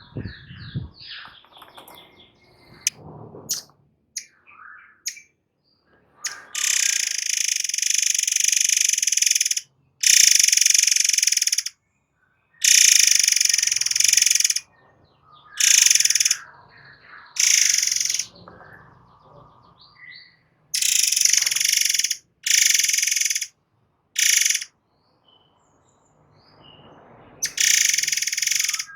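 A 'murai air' songbird singing in rapid, tight bursts of shrill, buzzing, rattling song, each lasting from under a second to about three seconds, with short pauses between them. A few thinner chirps and whistled glides come in the first seconds.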